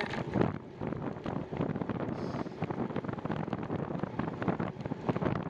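Wind buffeting the microphone of a camera on a moving bicycle: a steady, uneven rush of noise.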